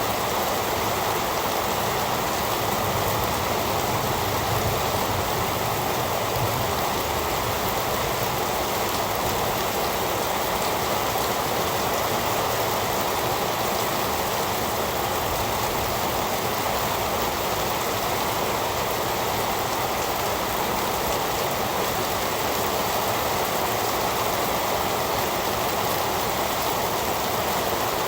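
Steady heavy rain: an even, unbroken hiss of falling rain with no thunder.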